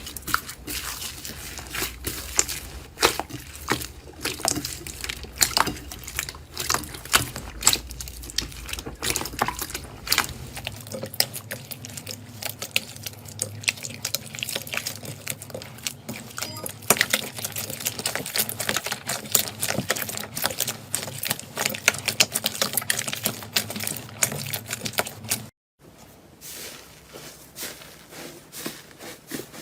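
Slime being squeezed and worked by hand, giving a dense run of small sticky clicks and pops with wet squelching. It breaks off for a moment near the end.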